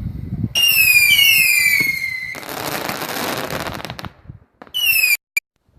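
Fireworks going off: a loud whistle falling in pitch for about two seconds, then a burst of crackling. Near the end a second, shorter falling whistle cuts off abruptly.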